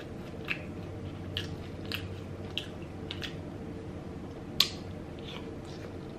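Close-up chewing and wet mouth smacks while eating sauce-coated shrimp and crab meat. Short, sharp smacks come every half second or so, one louder than the rest about four and a half seconds in, over a faint steady hum.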